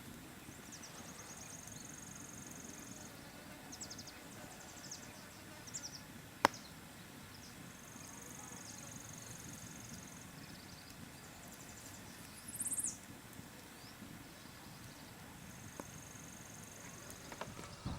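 Faint rural outdoor ambience: repeated high, thin trills lasting a second or more, scattered short chirps, a single sharp click a little over six seconds in, and a brief high falling call about two-thirds of the way through.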